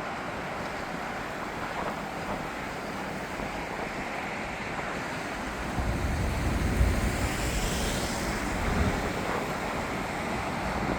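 Jet airliner's engine roar, swelling about six seconds in and easing off near the end, with wind buffeting the microphone.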